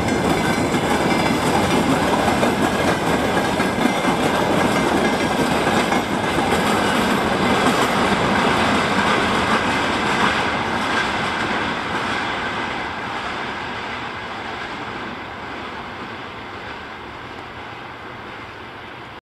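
Freight train of open gondola wagons rolling past, its wheels clattering on the rails, then fading steadily as the train moves away and cutting off just before the end.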